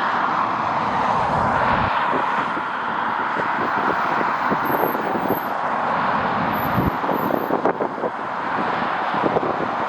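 Jet airliner engines making a steady rush, with wind buffeting and thumping on the microphone.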